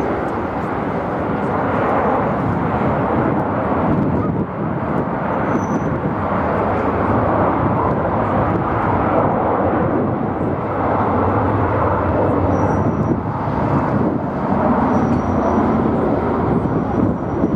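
Jet airliner engine noise, steady and loud, with a few short faint high peeps over it.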